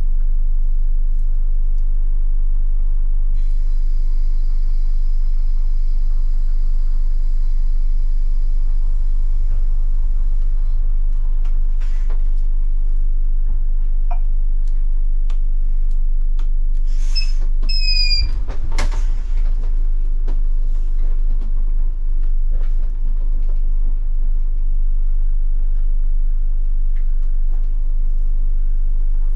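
Scania K250IB bus's diesel engine running with a steady low hum, heard from the driver's seat. Scattered clicks and rattles sound over it, with a short noisy burst and brief rising high whistles about 17 to 19 seconds in.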